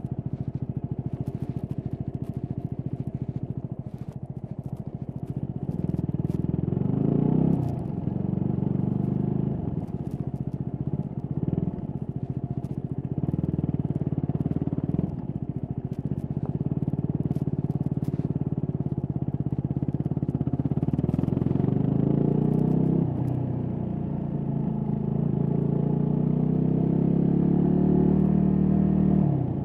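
Stock Yamaha WR250X's 250 cc single-cylinder engine under way: the engine note climbs in pitch as it accelerates and drops back sharply several times, with the longest climbs near the middle and the end. Faint clicks and rubbing of the recorder against gear come through.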